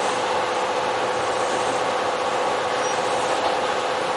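Kintetsu electric commuter train running along the line, heard from the cab: a steady rumble of wheels on rail with a constant whine.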